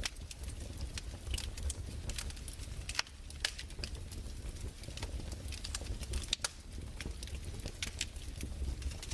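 Wood fire crackling in a fireplace: irregular sharp snaps and pops, one or two a second, over a low steady rumble.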